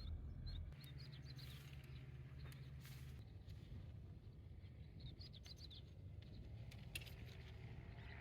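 Small birds chirping in short high calls, in little clusters near the start, around two seconds in and again around five seconds in. A low steady rumble and a few faint clicks lie underneath.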